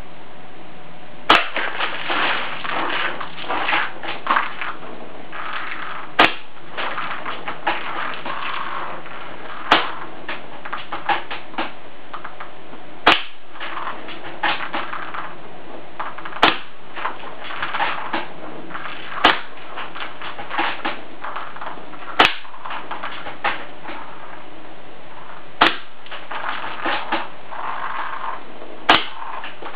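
WELL MB05D spring-powered bolt-action airsoft sniper rifle firing about nine single shots, roughly one every three seconds. Each shot is a sharp crack, followed by a stretch of rattling and clattering before the next.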